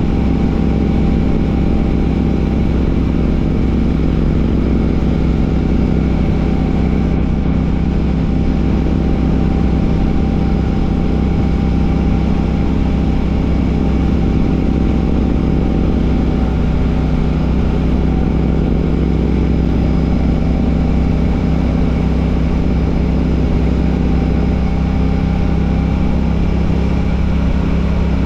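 Royal Enfield Classic 650's parallel-twin engine running through an aftermarket Ngage exhaust at a steady cruising pace, its note holding nearly constant.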